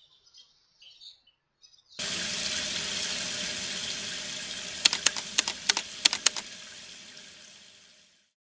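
Tap water running into a bathroom sink, starting suddenly and slowly fading away, with a quick run of sharp clicks about halfway through. Faint bird chirps come before the water starts.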